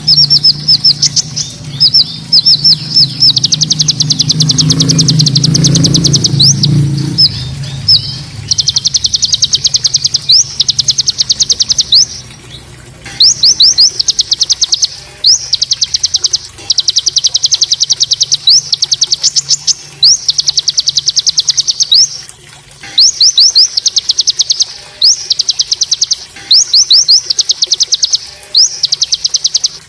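A songbird's harsh rapid-fire trill, the 'tembakan' call used to train other songbirds: bursts of very quick repeated high notes, each lasting one to three seconds, with short pauses between them. A low, steady sound sits beneath the first several seconds.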